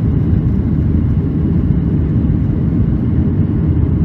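Steady low roar of airliner noise, loud and even throughout.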